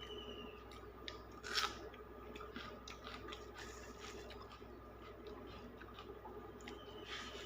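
Faint eating sounds: scattered wet clicks and smacks of chewing a mouthful of dal and rice, with one louder smack about a second and a half in.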